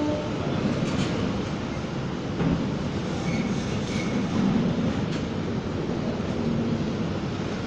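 Freight train wagons rolling past on the rails: a steady rumble with a few metallic clanks.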